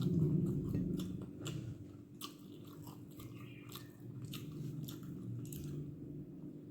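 Close-miked chewing and biting of dosa with chutney and kuzhambu, full of wet mouth clicks and smacks, heaviest in the first second.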